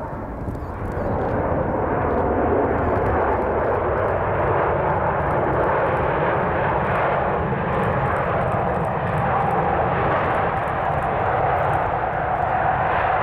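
Airbus A380 jet engine noise: a loud, steady roar that swells about a second in and then holds, with a steady higher whine coming in over the second half.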